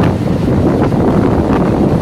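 EMU local train running, heard from on board: a steady rumble of wheels on the track with wind blowing across the microphone, and a few sharp clacks less than a second apart.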